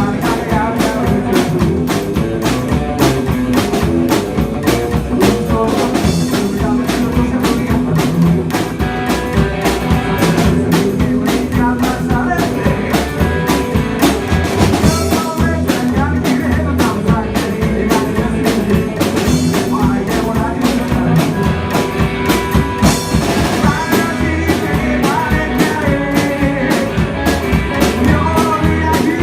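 Rock band playing: a drum kit keeping a steady driving beat under guitar, with pitched lead lines, possibly vocals, rising over it at times.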